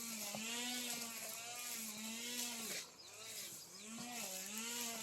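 Petrol brush cutter with a metal blade, running under load while cutting grass. The engine pitch sags and recovers about twice a second as the blade bites into the grass, and eases off briefly about three seconds in before picking up again.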